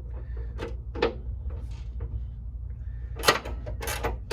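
Hand wrench and socket work on the rear suspension bolts: a few separate sharp metal clicks, then a quicker run of clicks and clanks about three seconds in.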